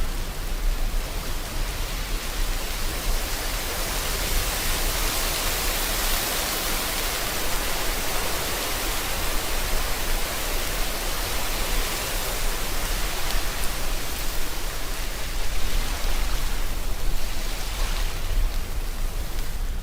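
Steady rain mixed with ocean surf: a dense, even hiss over a low rumble, swelling a little louder about three quarters of the way through.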